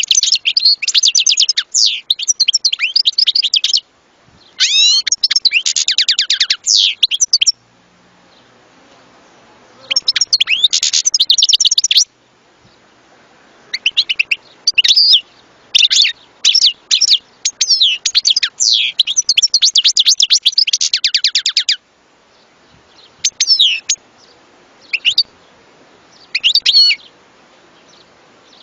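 European goldfinch singing: four long phrases of rapid, high twittering and fast trills, separated by short pauses, then a few short call notes near the end.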